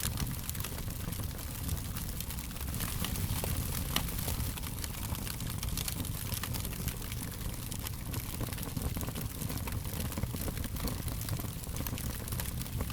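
Fire crackling with frequent small pops over a steady low rumble, and one sharper pop about four seconds in.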